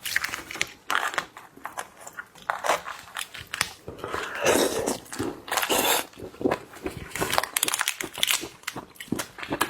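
Close-miked crunching and crackling of a large shrimp and its shell, an irregular run of cracks and crunches.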